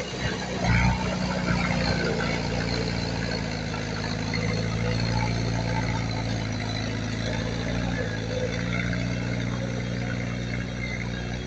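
Heavy diesel engine of earthmoving machinery running steadily, with a brief louder burst about a second in.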